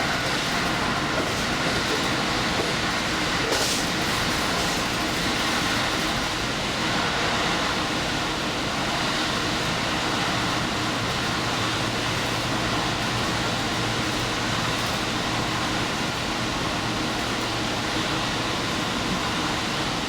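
Diesel limited express train running along the line, heard from the front of the train: a steady rumble of wheels and running gear. A low steady hum comes in about halfway through and drops away near the end.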